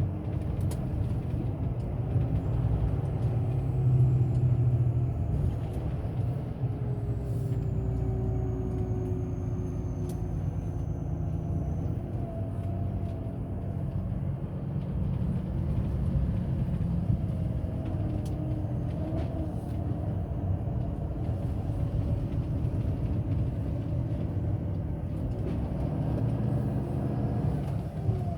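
Volvo truck driving on the road: a steady low rumble of engine and road noise, with faint tones that slowly shift in pitch as engine speed changes.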